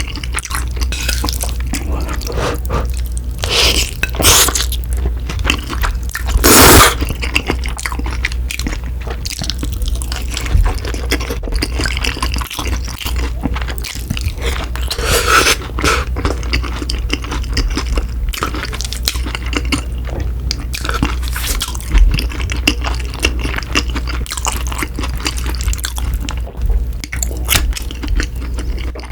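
Close-miked eating sounds: wet chewing and smacking mouth noises of a person eating, with a few louder bursts, the loudest about seven seconds in.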